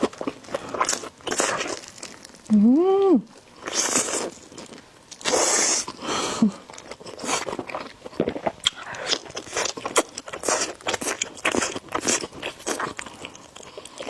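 Close-up mouth sounds of eating noodles: several loud slurps and steady wet chewing with many small clicks and crunches. A short hummed "mm" comes about three seconds in.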